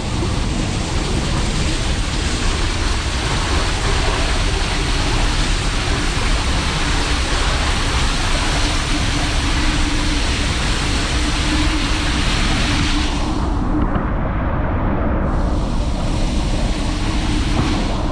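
Loud, steady rushing of water with wind buffeting the microphone. The hiss cuts out briefly twice, once about two-thirds of the way through and again near the end.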